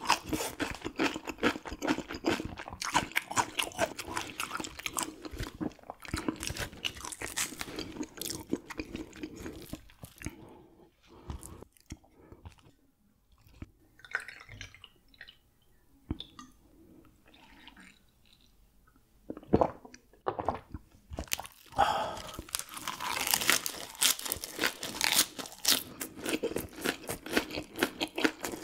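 Close-up chewing and crunching of raw gizzard shad eaten bones and all, a dense run of crackly crunches. About a third of the way in the chewing thins out to sparse, quiet sounds for around ten seconds, then the crunching picks up again.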